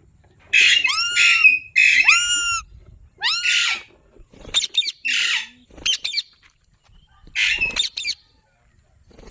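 Indian ringneck parrot giving a run of loud, harsh squawks: three long calls in the first few seconds, then several shorter ones after a brief pause.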